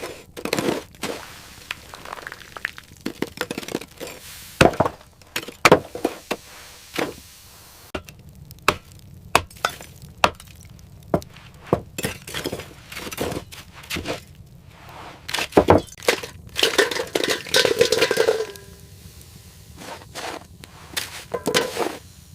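Irregular sharp knocks and clinks of hard objects being handled, with a denser scraping spell of about two seconds late on.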